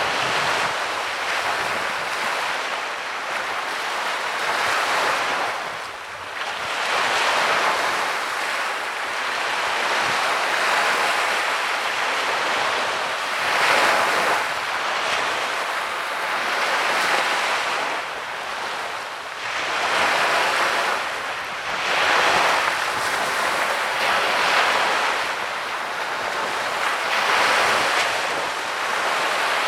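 Small sea waves breaking and washing up on a sandy beach, a continuous rushing surf that swells and eases every few seconds, with some wind on the microphone.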